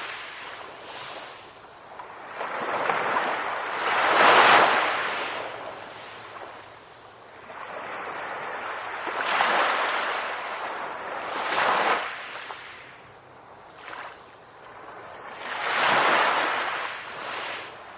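Ocean waves breaking and washing up onto a beach: slow surges of surf, four in turn, each swelling and then fading away, the loudest about four seconds in.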